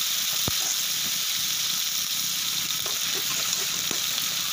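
Boiled, chopped octopus sizzling in a hot wok, with a few knocks of a metal ladle against the pan as it is stirred.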